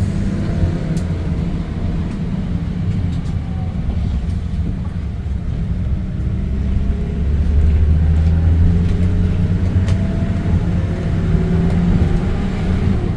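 Bus engine running and road rumble heard from inside a moving bus, a steady low drone that swells about two thirds of the way in as the bus pulls harder.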